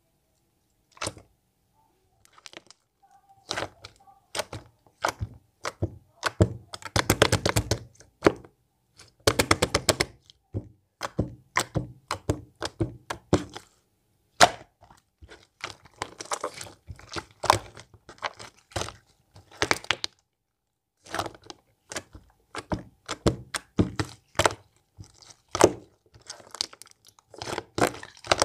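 Elmer's glue slime being squeezed and pressed by hand, making a steady series of sharp sticky clicks and pops. There are dense runs of rapid crackling about seven and nine seconds in.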